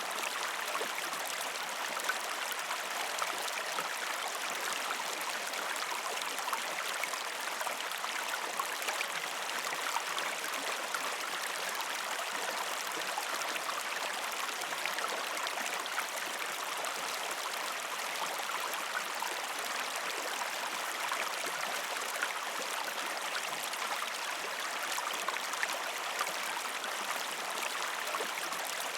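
Gentle river stream flowing over rocks: a steady rush of water with small splashes and trickles.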